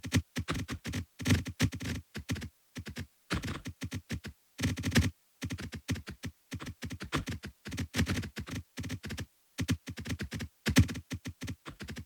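A rapid, irregular series of short clicks and taps, several per second with brief pauses, like fast typing.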